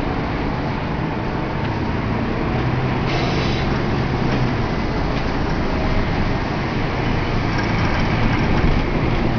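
Steady vehicle noise: a continuous rumble with a low hum, and a brief hiss about three seconds in.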